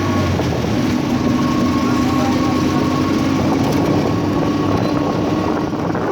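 An engine running steadily over a dense rushing noise.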